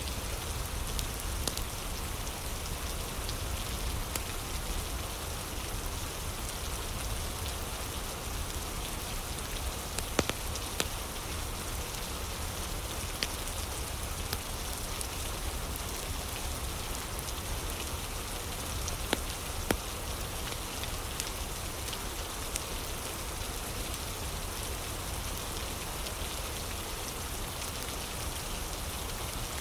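Steady rain ambience, with a wood fire giving a few sharp crackles now and then.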